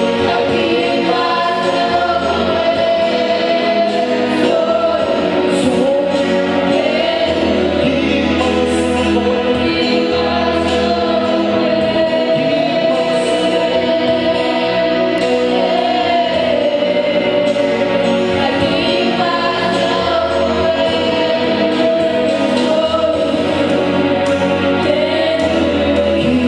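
A choir singing a gospel worship song in sustained, flowing lines over a bass accompaniment whose low notes change every few seconds.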